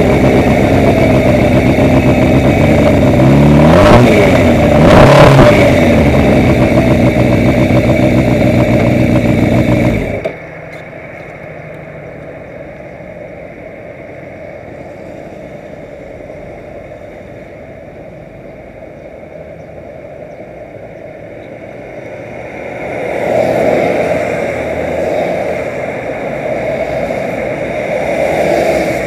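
Motor vehicle engine running loudly with shifting pitch. About ten seconds in it drops away suddenly to a much quieter hum, then grows louder again near the end.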